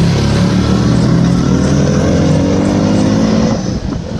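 Motorcycle engine pulling under load, its pitch rising steadily for about three and a half seconds, then dropping off near the end as the throttle comes off.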